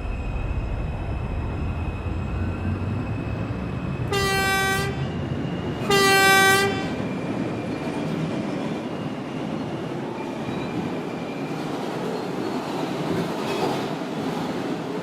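R142 subway train running along the track, with a train horn sounding two short blasts about four seconds in, the second louder.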